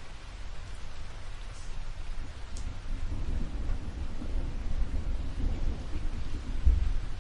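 Steady rain with a low rolling rumble of thunder that builds about halfway through and swells near the end.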